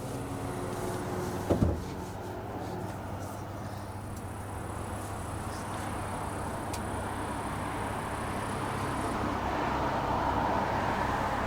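Steady motor-vehicle engine noise, swelling a little near the end as traffic passes, with one short thump about one and a half seconds in.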